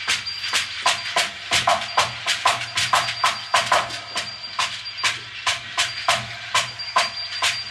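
Improvised electronic music made of a fast, uneven run of sharp, dry percussive clicks, about four a second, over a faint thin high steady tone.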